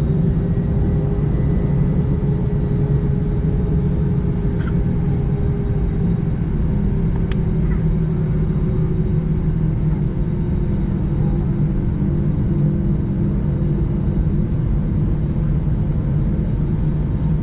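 Airbus A321 cabin noise while taxiing: the jet engines' steady low hum and rumble, with a faint click now and then.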